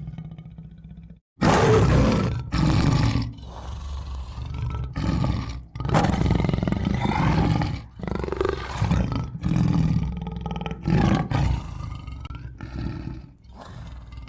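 Tiger roaring repeatedly: a run of loud, rough roars separated by short pauses, beginning about a second and a half in. Faint background music is heard before the roars start and again as they end.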